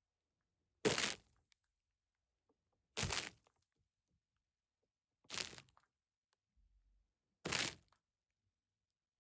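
Close-miked ASMR trigger sounds: four short, crisp noises about two seconds apart, each dying away within half a second.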